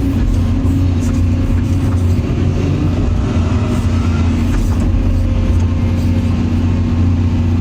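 Caterpillar 336 EL excavator's diesel engine running steadily under digging load, with the turbocharger whining.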